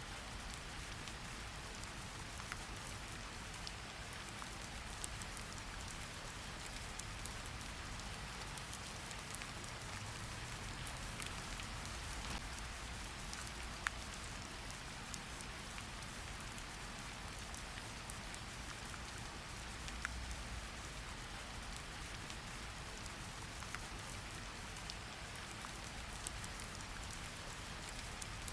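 Steady rain falling, a continuous hiss of drops with scattered sharper individual drop ticks and a soft low rumble underneath.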